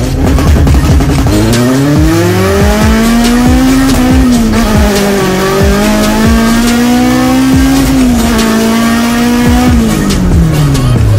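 Naturally aspirated Honda D16 four-cylinder engine pulling hard, heard from inside the stripped cabin: its pitch climbs, drops back briefly about four and eight seconds in at gear changes, and falls away near the end as it slows.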